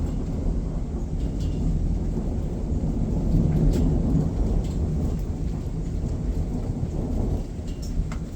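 Thunderstorm: a low rumble of thunder that swells about halfway through and then eases off, over steady rain with a few sharp drop ticks.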